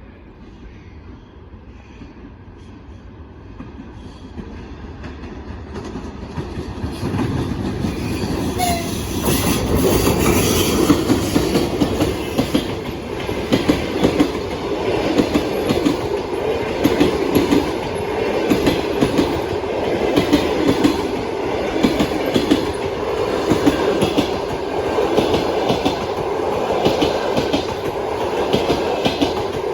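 EP1M electric locomotive hauling a passenger train as it approaches and passes. The sound grows over the first ten seconds into a steady rumble, and the wheels clatter rhythmically over the rail joints as the coaches go by.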